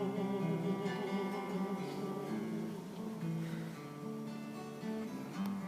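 Acoustic guitar playing an instrumental break in a traditional folk song, chords sounding with no voice.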